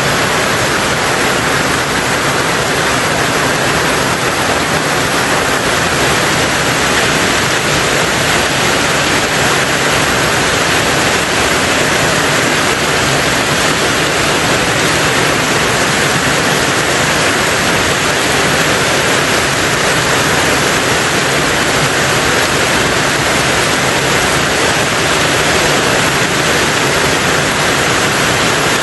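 Heavy rain falling on a tin roof: a dense, steady hiss of drops with no distinct single impacts standing out.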